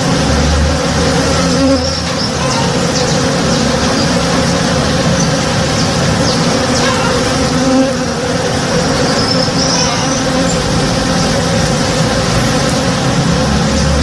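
A swarm of honey bees buzzing steadily as they forage on a tree in bloom, many wingbeats blending into one continuous hum.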